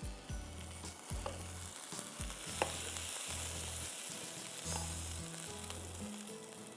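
Stir-fried chicken noodles sizzling in a hot wok, with a few sharp clicks of the spatula against the pan. The wok is then tipped and the noodles slide out onto a serving platter.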